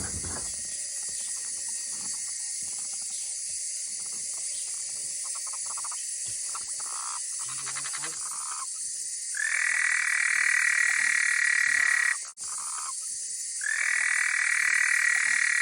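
Frogs calling in water: two loud, long trilling calls of about three seconds each, the first about nine seconds in and the second near the end, with shorter, softer calls before them. A steady high-pitched chorus runs underneath.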